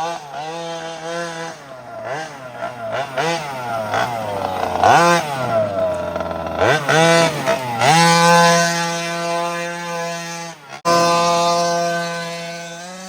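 Small 36cc two-stroke petrol engine of a 1/5-scale RC rally car, blipped up and down in quick bursts for several seconds and then held at steady high revs. A sudden break in the sound comes about eleven seconds in, and the engine runs on.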